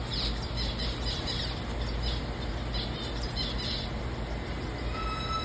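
Small free-flying birds giving quick high squawking chirps in two clusters over a steady low hum. Near the end a steady high whine begins.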